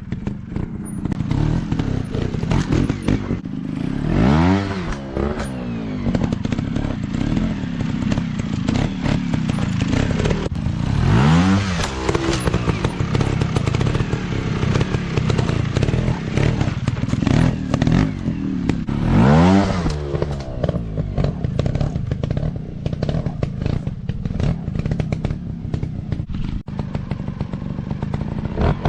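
Dirt bike engine running at low revs, revved up and dropped back three times, about every seven or eight seconds, with clattering knocks throughout.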